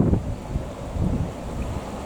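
Wind buffeting the microphone: an uneven low rumble that surges in gusts.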